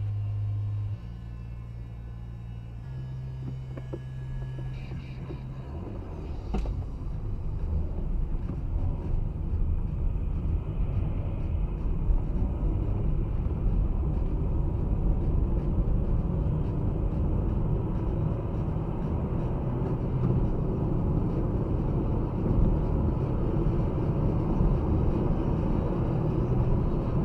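A car driving, with a steady low engine and road rumble that grows louder about six seconds in and then holds. Before that there is a steady low hum that steps in pitch a couple of times.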